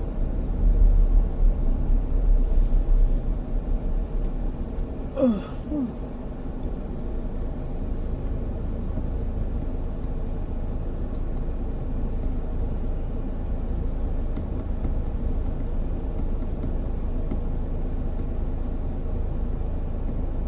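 Freightliner Cascadia semi truck's diesel engine rumbling steadily, heavier over the first few seconds. There is a short hiss about two and a half seconds in and a brief squeak about five seconds in.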